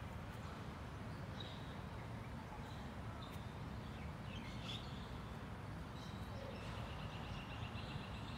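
Steady low outdoor rumble with a few short bird chirps scattered through, then a rapid bird trill near the end.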